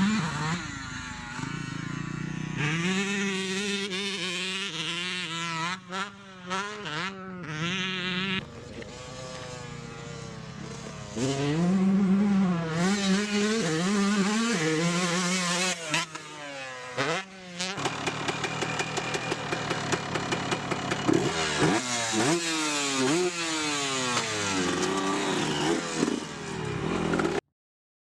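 Racing motorcycle engines revving hard, the pitch climbing and dropping again and again as the bikes accelerate and shift gears while passing. The sound cuts off suddenly near the end.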